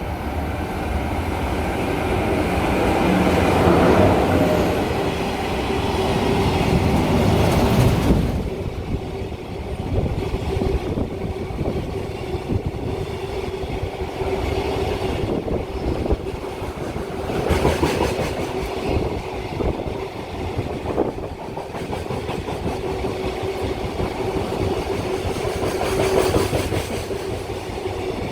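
A JR Freight EF66 electric locomotive hauling a freight train passes through at speed. The locomotive's pass is loudest for the first eight seconds, then the long string of freight wagons rumbles and clatters over the rail joints, with a steady hum underneath.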